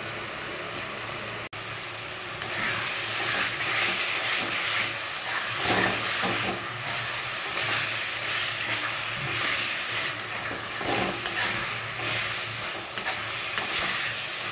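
Thick masala paste sizzling in oil in a metal kadai while a metal spatula stirs and scrapes it round the pan: the spice paste being fried down (bhuna). The sizzling and scraping get louder about two seconds in.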